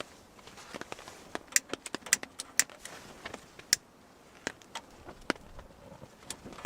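Irregular sharp metallic clinks and knocks, about a dozen, the loudest clustered in the first half, from the small camp wood stove and its parts being handled as it is fired up.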